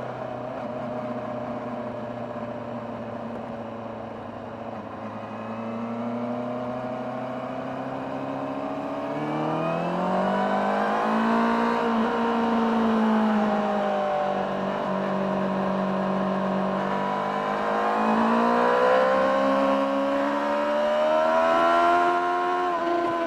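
2024 Honda CBR600RR's inline-four engine on its stock exhaust, heard from on board the moving bike. It runs steadily for the first several seconds, then the revs climb about nine seconds in, ease back, and climb again near the end.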